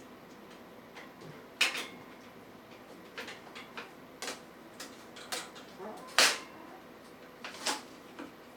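A string of short, light clicks and knocks at irregular intervals, about seven of them, the loudest a little after six seconds in, over a low steady room background.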